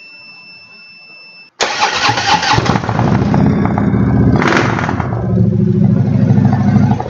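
A faint high whine, then a Harley-Davidson V-twin motorcycle engine cranks and catches about one and a half seconds in, settling into a lumpy idle with a short surge about halfway through.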